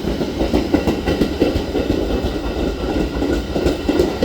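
A train passing at speed, its wheels clattering over the rail joints with a loud, steady rumble.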